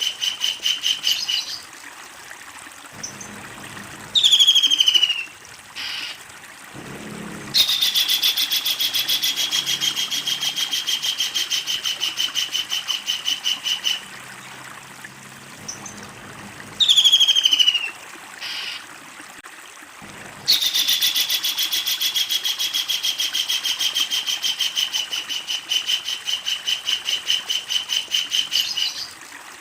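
Kingfisher giving its long rattling laugh: a fast, even string of notes that starts a little higher and settles into a steady rattle for six or seven seconds, twice. Each rattle comes after a short, loud falling call.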